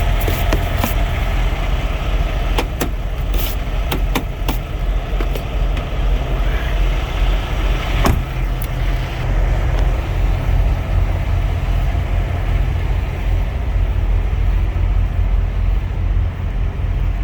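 A vehicle engine idling: a steady low rumble. Scattered sharp clicks and knocks come in the first half.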